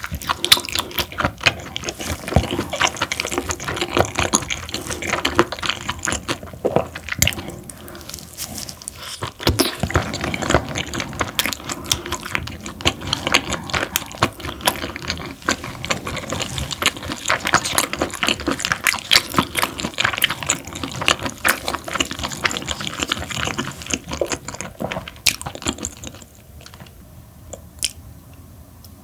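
Close-miked wet chewing and mouth smacking of springy, chewy parboiled webfoot octopus, a steady stream of squelchy clicks that grows quieter near the end.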